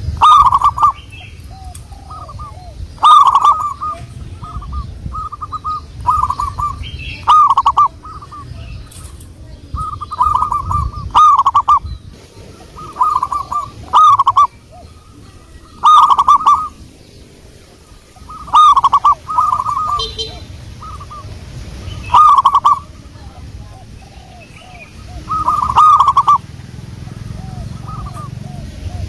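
Zebra dove (perkutut) cooing, its song repeated as phrases of quick, curved coo notes every two to three seconds, with fainter calls in between.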